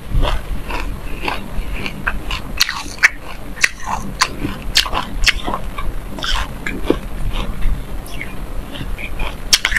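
Close-miked chewing of sesame seeds with passion fruit: irregular sharp crunches and wet mouth clicks, a few every second.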